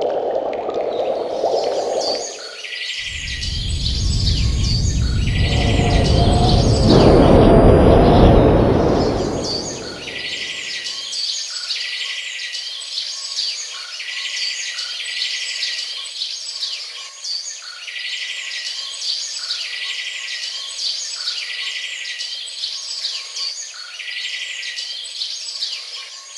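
Recorded birdsong: birds singing in short repeated phrases, alone from about ten seconds in. Before that, a loud rush of noise swells and fades over about seven seconds.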